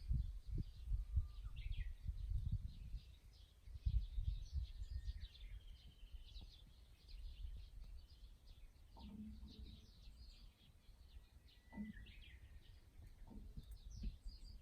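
Small birds chirping and calling with short high notes and a few whistles, over a gusty low rumble of wind on the microphone.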